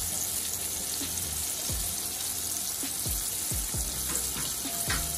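Battered fish steaks frying in shallow oil over high heat, the oil sizzling steadily.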